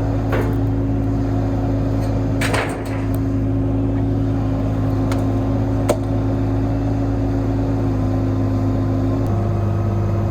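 IHI 30NX compact excavator's diesel engine running steadily under hydraulic work, with a few sharp knocks or clanks about two and a half and six seconds in. The engine note shifts down slightly about nine seconds in.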